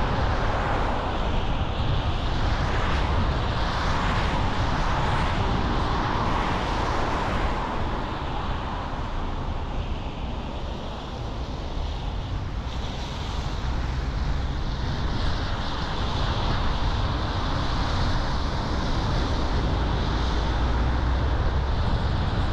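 A car driving at speed: steady tyre, road and wind noise, easing off slightly about halfway through and then building back.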